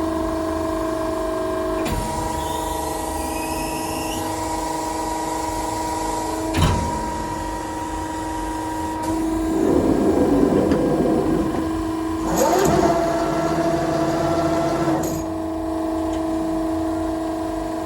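Press brake running with a steady hum. There is a single knock about a third of the way in, and louder stretches of machine noise in the second half, as the machine works.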